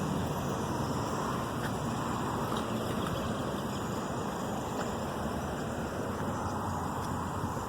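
Steady outdoor road traffic noise, a low even rumble with cars going by.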